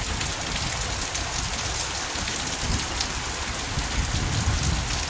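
Steady heavy rain pouring down onto a yard and ground already standing with water, with a low wind rumble underneath.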